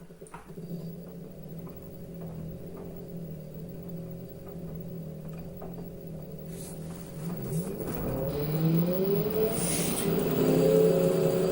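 Washing machine running with a steady motor hum and faint ticks. From about seven seconds in, the motor whine rises in pitch and grows louder as the drum speeds up, then holds steady near the end.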